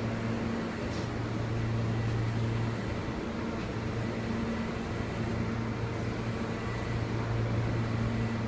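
Steady low hum and rumble of an R160B subway train with Siemens equipment, holding an even pitch with no rising or falling whine, with a second, higher hum that cuts in and out every second or two.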